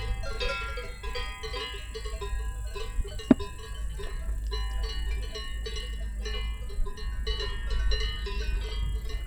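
Many cowbells clanking and ringing irregularly, as on a herd of grazing cattle, over a steady low rumble of wind on the microphone. A single sharp click comes about three seconds in.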